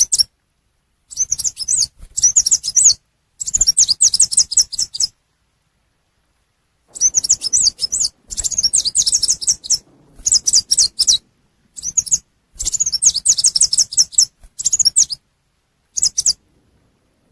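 Lure recording of the small bird known as chim sâu xanh tím, giving rapid high-pitched chirping calls in bursts of one to two seconds with short silent breaks between them, and a longer pause about five seconds in.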